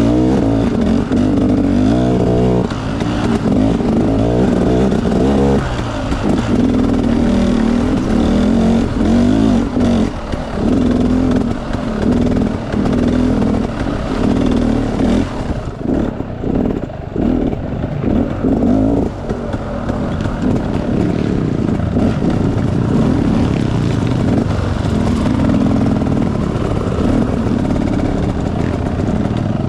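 Enduro dirt bike engine running and revving. For a stretch in the middle the throttle is blipped on and off again and again, and the engine note is steadier toward the end.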